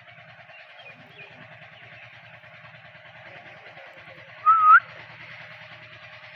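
Indian ringneck parrot giving one short whistled call, dipping then rising at the end, about four and a half seconds in, over a steady background hum.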